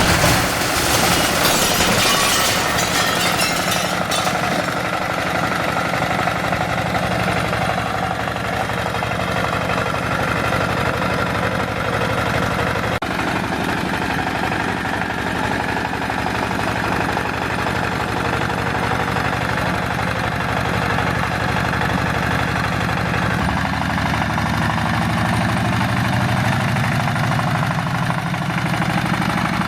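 Small engine of a DIY mini tractor running steadily, with a louder hissing noise over the first few seconds. Its pitch rises a little and grows stronger near the end.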